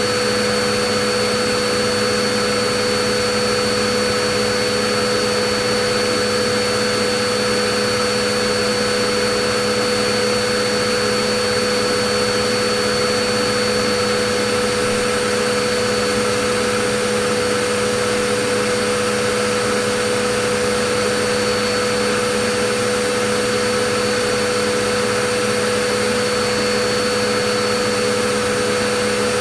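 Vacuum cleaner running steadily: a constant motor hum and rush of air, loud and unchanging in pitch and level.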